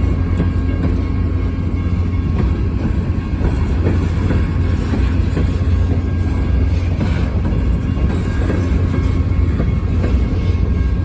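Freight train cars rolling steadily past, their wheels clicking over the rail joints above a continuous low rumble.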